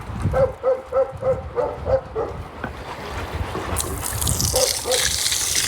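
A dog whining in a quick run of short, high cries, about three a second. About four seconds in, water starts running and splashing.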